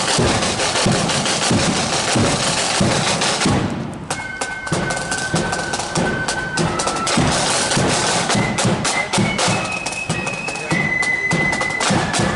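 Marching flute band: drums beating alone at first, then about four seconds in the flutes come in with a tune over the drums.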